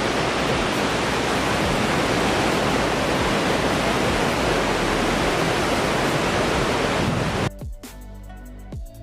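A waterfall's falling water, a loud, steady rush. About seven and a half seconds in it cuts off abruptly and electronic music with a beat begins.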